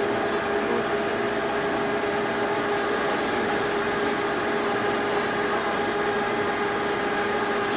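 Steady mechanical drone with several unchanging tones, like a running engine or machinery.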